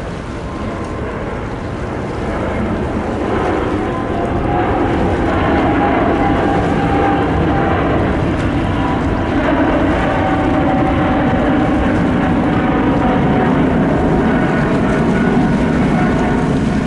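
Boeing 777-300ER's GE90 turbofan engines running at high thrust during a go-around: a loud, steady jet rumble with a faint whine, growing louder over the first several seconds and then holding.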